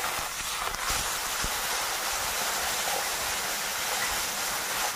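Onion, tomato and ginger-garlic masala sizzling steadily in mustard oil in a karai while it is stirred with a spatula, with a couple of faint scrapes.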